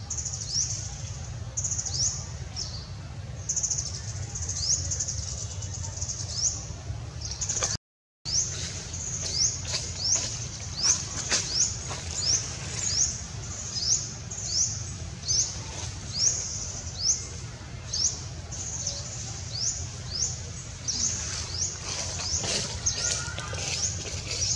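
A bird calling repeatedly, a short high chirp that rises quickly, about one a second, over a steady low rumble. The sound cuts out completely for a moment about eight seconds in.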